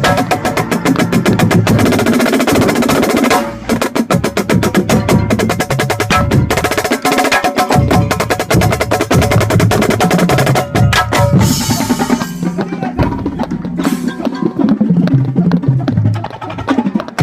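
Marching snare drum played close to the microphone: fast strokes and rolls over the full marching band's brass and drumline. The snare breaks off briefly about three and a half seconds in and plays more sparsely in the last few seconds, leaving the band's held notes more exposed.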